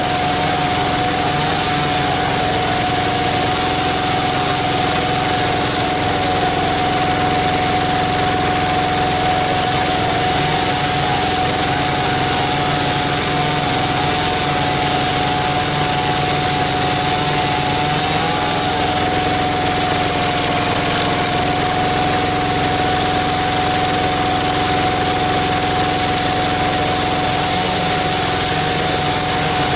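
Walk-behind power tiller engine running steadily, driving a screw-cone log splitter, with a steady whine over the engine note.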